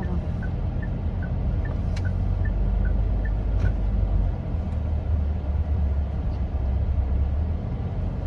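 Steady low rumble of a car. During the first half, a regular run of short high blips, about two or three a second and alternating between two pitches, stops.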